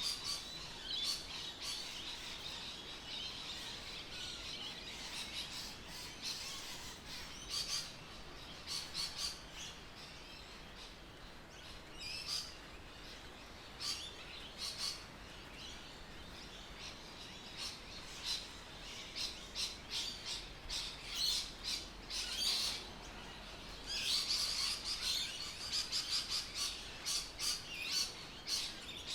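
Birds chirping: many short, high calls overlapping over a faint steady background, coming thickest in a run near the end.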